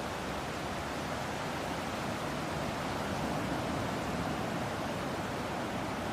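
Ocean surf and sea breeze making a steady, even wash of noise that swells slightly about halfway through.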